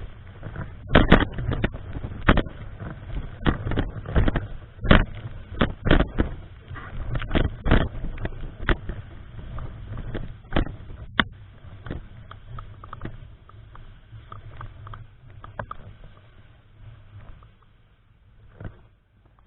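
Typhoon wind buffeting the microphone in irregular gusts over a steady low rumble; the gusts thin out and get quieter in the second half.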